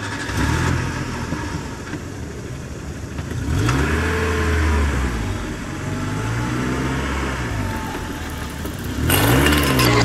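A vehicle engine revving up and down several times, its pitch rising and falling, with a louder, hissier stretch starting about nine seconds in.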